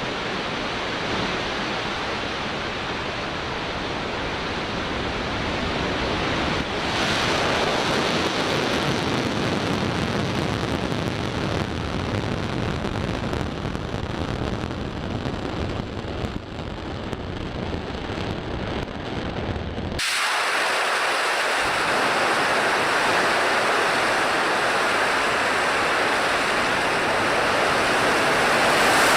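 Soyuz-2.1v rocket's NK-33 first-stage engine at liftoff, a steady, loud roar. About 20 seconds in, the sound changes abruptly: the low rumble drops out and a thinner, higher-pitched hiss continues.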